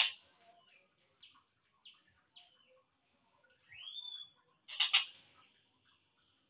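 Slowed-down recording of a tengkek buto kingfisher calling. There are a few short, faint chirps, a single rising whistled note about four seconds in, and a brief louder harsh note near five seconds.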